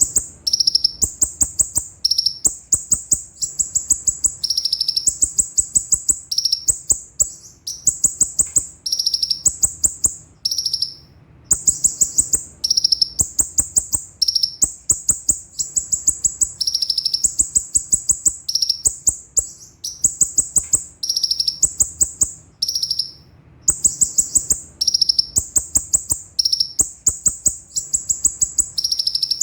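Konin (kolibri ninja) sunbird singing a fast, high-pitched rolling song: rapid runs of sharp chips, phrase after phrase with short breaks between them.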